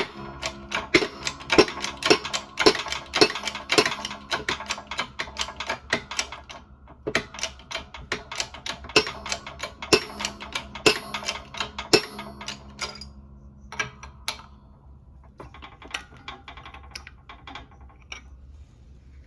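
Rapid, uneven metallic clicking and tapping from hand tools working on a car's front lower control arm and its bushing. The clicks come in dense runs with a short pause about six seconds in, then turn sparse after about thirteen seconds.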